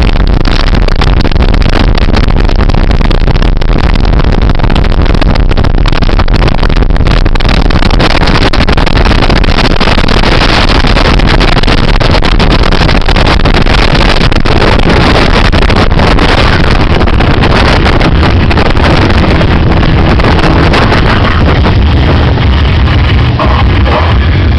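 Motorboat underway, its engine running steadily under loud rushing wind and water noise, unbroken throughout.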